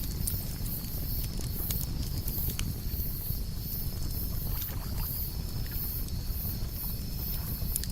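Campfire crackling, with scattered sharp pops over a low steady rumble, while crickets chirp in a high, evenly pulsing trill.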